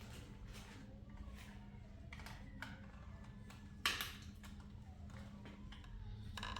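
Faint, scattered light taps and clicks, with one sharper knock just before four seconds in.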